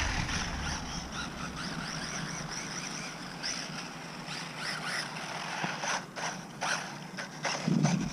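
Electric motor of a stock brushed-motor WLtoys 969B RC short course truck whining at a distance, its pitch rising and falling with the throttle as it drives. A few short clicks come about six seconds in.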